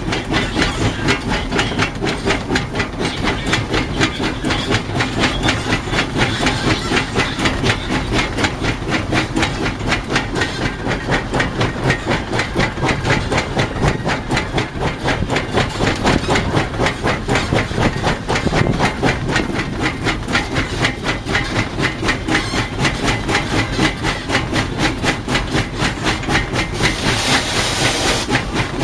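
Narrow-gauge 4-6-0 steam locomotive No. 12 working under way, its exhaust beating in quick, even chuffs over a steady steam hiss, heard from the cab. Near the end a louder burst of hissing steam rises over the beat.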